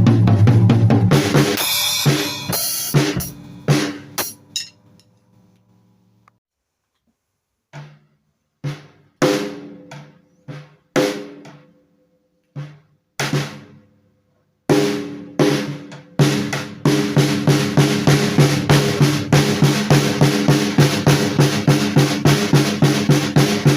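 Drum kit played loosely. Loud ringing hits open and fade away, then after a pause come scattered single strikes. From about two-thirds of the way in, it settles into a steady run of even beats, about four a second, with the drums ringing under them.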